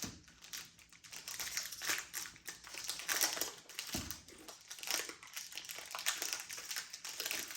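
Plastic snack wrapper crinkling and rustling in the hands, with a dense run of irregular crackles.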